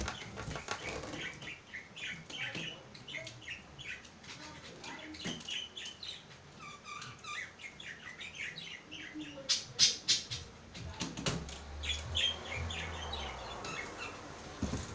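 A small bird chirping and chattering in quick, irregular bursts, with a few sharp knocks about ten seconds in.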